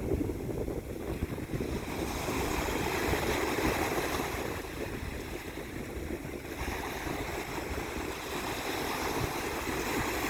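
Wind buffeting the microphone over rushing, splashing water, swelling and easing every few seconds.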